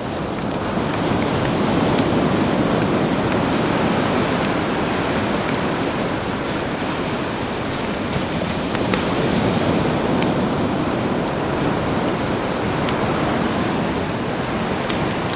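Sea waves washing in as a steady rushing wash that swells about a second in and slowly ebbs, with the sharp crackles and pops of a campfire scattered throughout.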